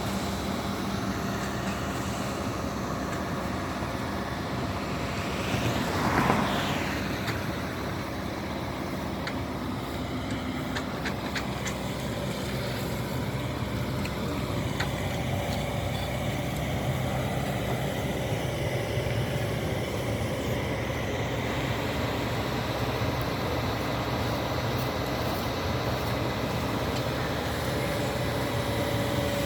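Heavy construction machinery's diesel engines running steadily, with a brief swell of noise about six seconds in.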